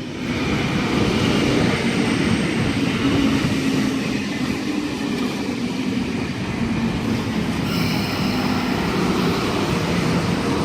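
Sydney Trains K-set double-deck electric train running past the platform: a steady rumble of wheels on the track, with thin high squealing tones about eight seconds in.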